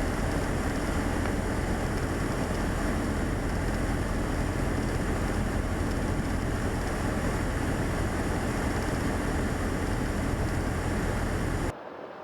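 Cabin noise of a Beechcraft Sundowner's four-cylinder Lycoming engine running at reduced power on final approach, with steady airflow noise. Near the end the level drops suddenly to a quieter hiss.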